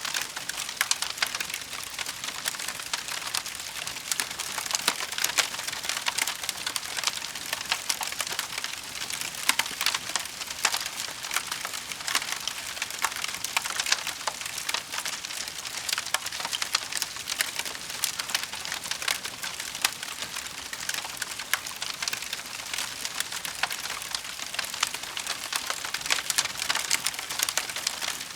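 Wood fire crackling steadily, a dense run of small sharp pops and snaps over a soft hiss, with now and then a louder snap.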